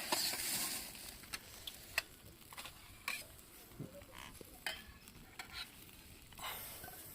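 Food sizzling as it cooks, with scattered light clicks and taps of utensils. The sizzle is strongest in the first second and swells again near the end.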